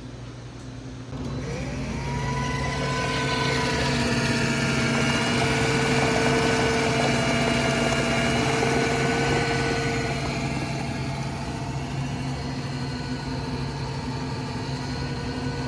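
Hot chocolate dispensing machine running, its motor and pump whining with a steady low hum as a cup is filled. The whine starts about a second in, is loudest in the middle and eases off after about ten seconds.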